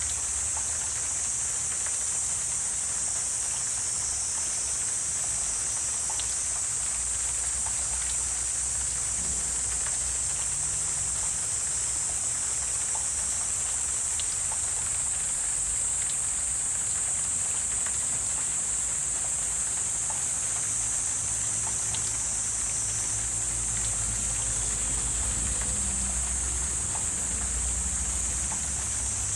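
Wetland ambience: a steady high-pitched chorus of creatures, most likely insects, over a low rumble that grows stronger in the second half, with scattered small ticks and drips.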